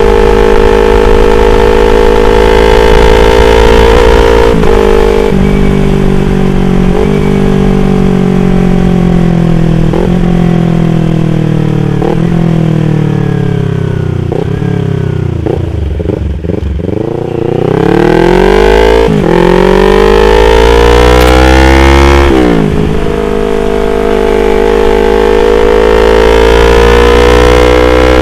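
Yamaha R25's parallel-twin engine under riding: a steady cruising note, then the revs sinking for about ten seconds with a short break every second or two, as in a run of gear changes while slowing. Past the middle it revs up hard, drops sharply twice as it shifts up, and settles into a steady cruise near the end.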